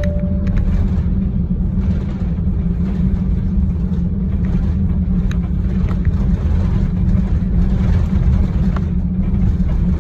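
Steady low rumble inside an airliner's passenger cabin: jet engine and airflow noise, with a few faint clicks.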